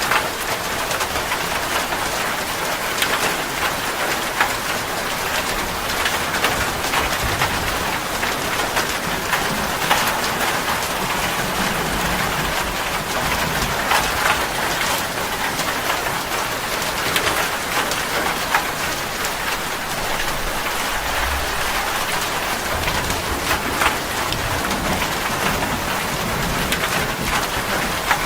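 Steady heavy rain: a dense, even patter with sharper single drop hits now and then, and a few low rumbles underneath.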